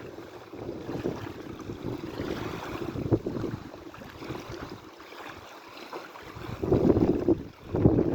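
Sea waves lapping and sloshing in an irregular wash, with two louder surges near the end.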